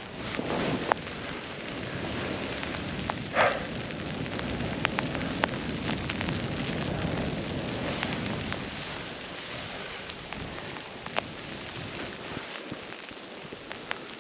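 Snowboard sliding through deep powder snow: a steady rush and hiss with scattered sharp ticks, easing toward the end.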